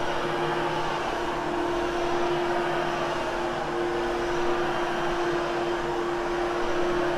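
Hoover Hushtone vacuum cleaner running steadily with its brush roll, grooming the pile of a freshly cleaned, barely damp carpet: an even motor hum with one constant tone over airflow hiss.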